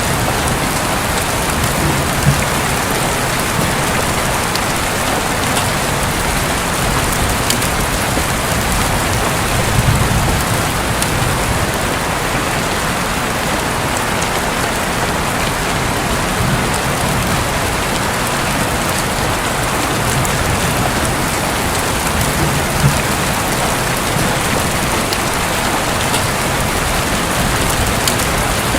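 Heavy rain falling steadily on a roof, an even dense hiss, with a few sharp louder drops and occasional brief low rumbles.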